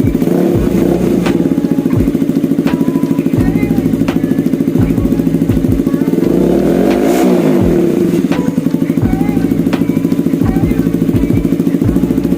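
KTM Duke 200's single-cylinder engine idling through a custom link pipe and an SC Project-style canister fitted with a dB killer. It gives a short rev just after the start and a bigger throttle blip about seven seconds in, rising and falling in pitch.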